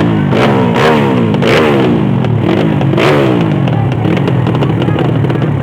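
Drag-racing motorcycle engines revving hard, their pitch repeatedly climbing and dropping away, with sharper revs about half a second, a second and a half and three seconds in.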